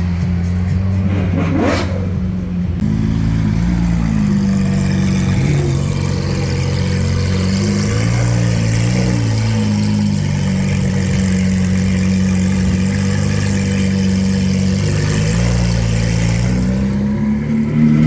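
Lamborghini Aventador's V12 engine running at low revs, its pitch stepping up and down slightly a few times.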